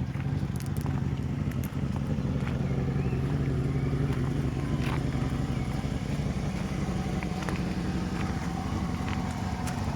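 1996 Lincoln Continental's 4.6 V8 petrol engine running steadily at idle, with a few light clicks over it.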